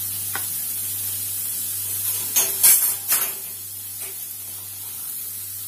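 Diced capsicum sizzling in melted butter in a metal kadai over a gas flame: a steady hiss, with a few brief knocks about halfway through.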